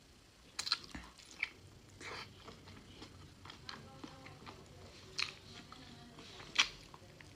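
A person eating close to the microphone: chewing with wet mouth noises, broken by several sharp clicks and smacks, the loudest near the end.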